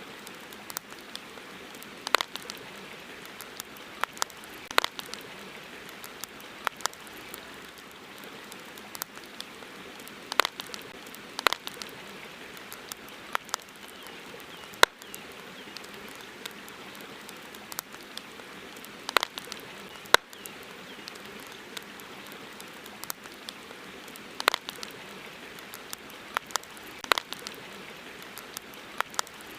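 Campfire crackling: sharp, irregular pops and snaps, sometimes in quick pairs, over a steady even hiss.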